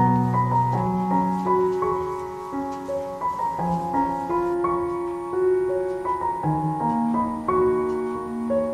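Background piano music: a slow melody of held notes over low bass notes.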